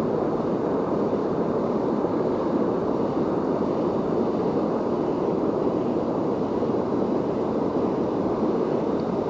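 Fast river current and waterfall water rushing steadily, a constant even wash of noise.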